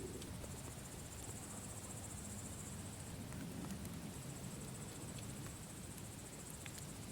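Campfire burning with a low steady rumble and a few sharp crackles and pops, under a steady high chirping of crickets.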